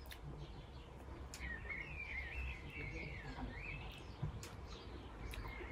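A bird singing one warbling phrase of about two seconds, with a few faint clicks scattered around it.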